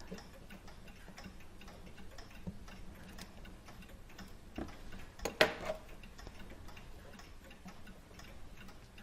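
A mechanical clock ticking steadily, with a sharper metallic click about five seconds in as small tools work on the clock movement.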